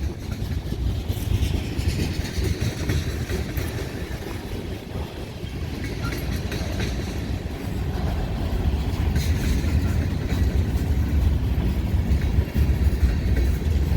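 Heavy BNSF freight train rolling slowly past, a steady low rumble of the passing cars that grows a little louder in the second half, with wind buffeting the microphone.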